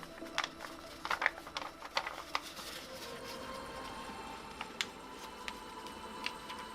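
A sheet of paper being folded and creased by hand: soft rustling with scattered sharp crinkles, busiest in the first couple of seconds.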